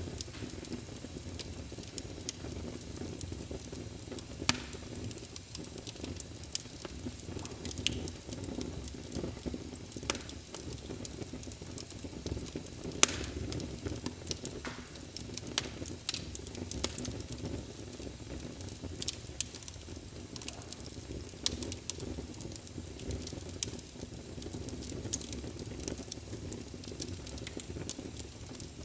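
Wood fire burning in a fireplace: a steady low rumble with frequent sharp crackles and pops, a few of them louder, the loudest about thirteen seconds in.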